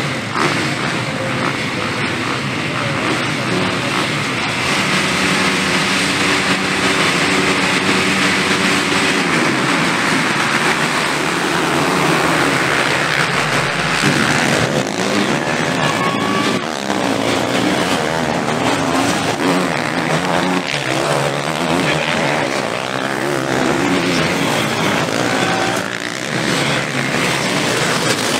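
Motocross bikes running on the track, engines revving up and down through the gears. About five seconds in, one engine holds a steady note for several seconds; after that, several engines rise and fall in pitch.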